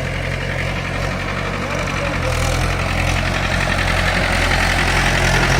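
Mahindra 475 tractor's diesel engine running steadily, growing gradually louder.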